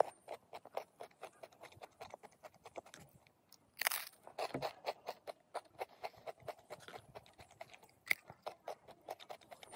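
A person chewing food close to the microphone: many small irregular crunches and mouth clicks, with one louder crunch about four seconds in.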